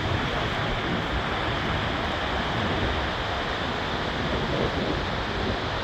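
Storm surf on the sea and hurricane-force wind, a steady dense rush of water and air with the wind buffeting the microphone at the low end.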